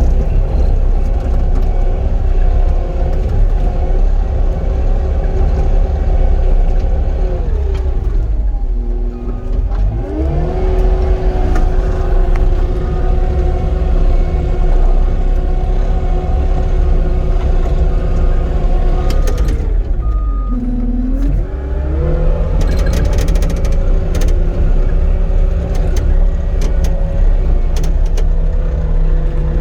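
Cat 259D compact track loader's diesel engine running at high revs under working load. The pitch drops and comes back up twice, about a third of the way in and again about two-thirds in.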